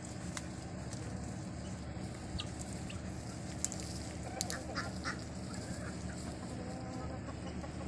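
Free-range poultry calling, with a cluster of short calls about four to five seconds in over a steady low background hum.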